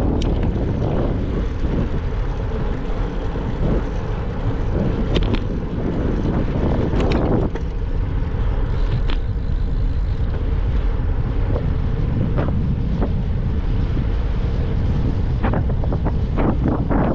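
Steady wind rushing over the microphone of a moving bicycle, with a few sharp clicks now and then.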